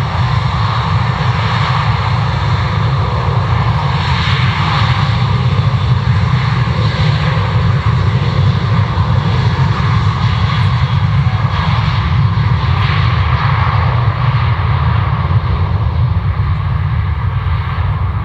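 Boeing 737-800 jet airliner's CFM56 turbofan engines running, a steady loud jet noise with a heavy low rumble that holds without a break.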